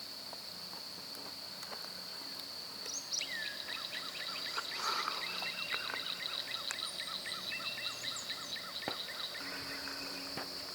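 Steady high-pitched insect drone, with birds calling over it from about three seconds in: rapid runs of repeated chirps and a few falling whistles that fade out near the end.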